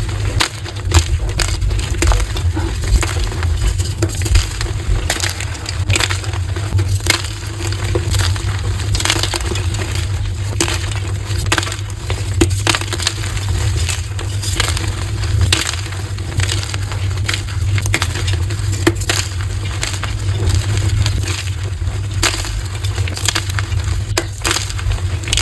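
Blocks of gym chalk being crushed, a dense, continuous run of crunches and crumbles, sped up to double speed, over a steady low rumble.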